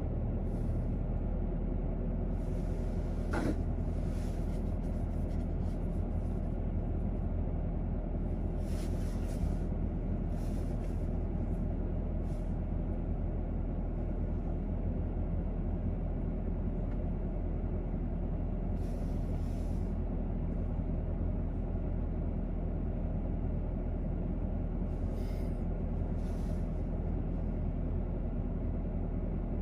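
A parked car's engine idling, heard from inside the cabin as a steady low rumble. A short rising tone sweeps up about three and a half seconds in.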